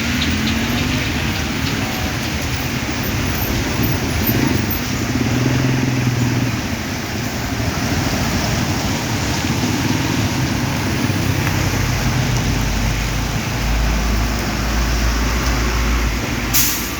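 Heavy rain falling as a steady hiss, with a vehicle's engine and road noise running underneath and a deeper rumble in the second half. A sharp click near the end.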